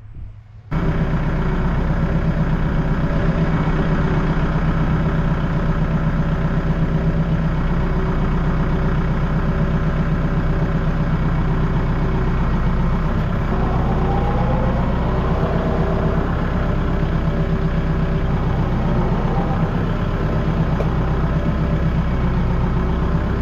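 A vehicle engine running steadily at an even, low speed. It comes in suddenly just under a second in.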